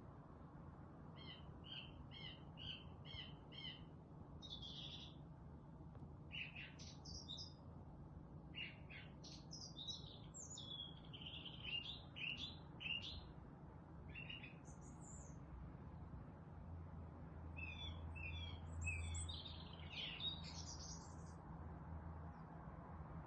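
Forest birds chirping and singing in varied high phrases. It opens with a quick run of about six repeated short notes, followed by scattered trills and a busier cluster of chirps near the end. A faint low steady hum sits underneath.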